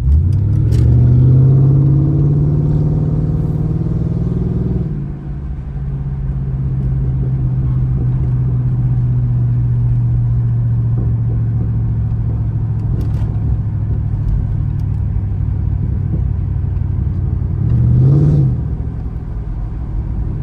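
Mercury Grand Marquis V8 with a loud exhaust, heard from inside the cabin. It pulls hard with the engine note rising for about five seconds, then drops as the throttle is let off into a steady cruise, and near the end gives a short rev that rises and falls. It is being driven to make the exhaust pop on lift-off, but no clear pops or bangs come.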